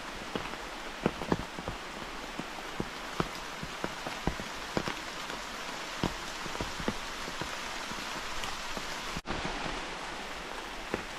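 Steady rain hissing, with many separate large drops striking a surface at irregular moments. There is a brief break in the sound about nine seconds in.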